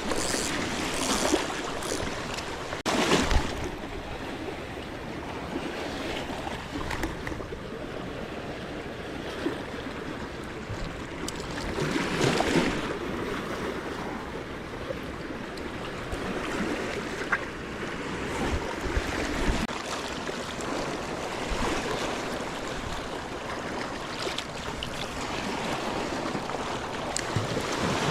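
Sea water washing at the shore with wind on the microphone, a steady hiss with a couple of louder surges.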